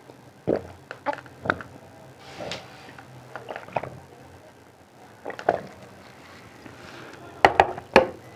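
Close-miked mouth sounds of eating: wet smacks and sharp clicks of chewing, irregular and spaced out, with the two loudest about a second apart near the end.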